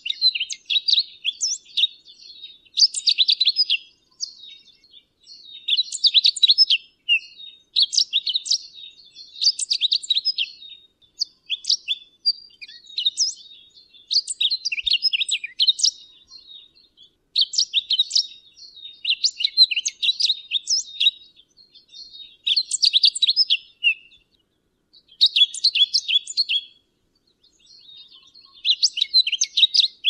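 Pine grosbeak singing: a run of short, fast, high warbled phrases, each a second or two long, repeated with brief pauses between.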